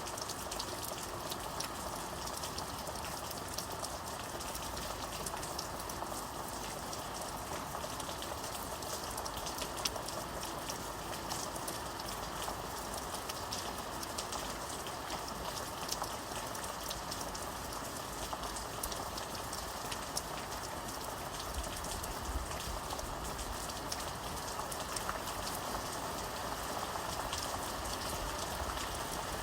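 Steady rain falling, with many fine drop ticks and an even hiss.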